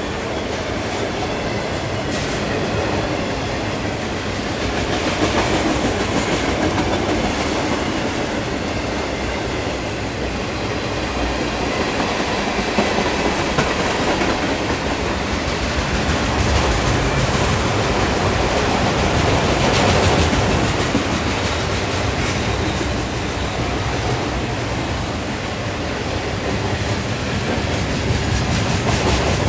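Norfolk Southern train cars rolling past at close range: a steady, continuous rumble of wheels on the rails, swelling and easing slightly as the cars go by.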